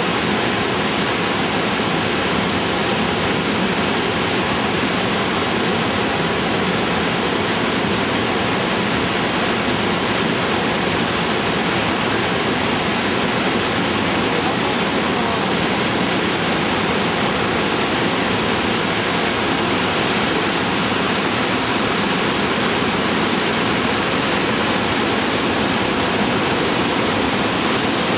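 Loud, steady rush of fast-moving river water or a waterfall, even and unbroken throughout.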